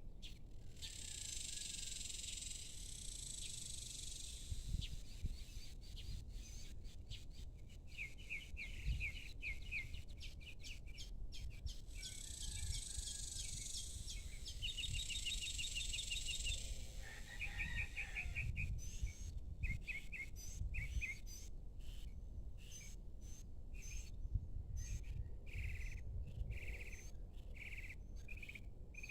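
Evening birdsong: birds repeating short chirping notes in quick series, with a high, hissing buzz in two stretches that sounds like insects. A low steady rumble runs underneath.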